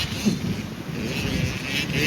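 Motocross bike engine running, quieter here between louder passes, with wind buffeting the microphone.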